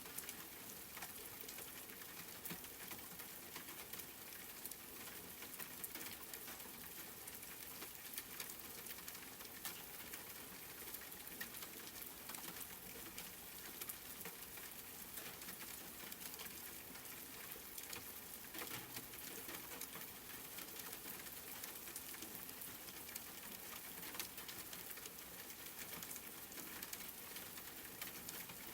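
Steady rain pattering, with many small drop ticks scattered through an even hiss.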